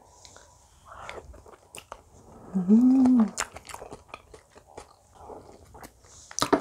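Close-up chewing of a mouthful of kakdugi (radish kimchi) fried rice: wet mouth clicks and small crunches from the radish cubes. About halfway through comes a short closed-mouth hum that rises and falls in pitch, the loudest sound, and near the end a sharp click.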